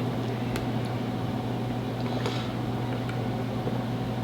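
Steady low hum of room background noise, with a faint click about half a second in and a soft airy sound about two seconds in.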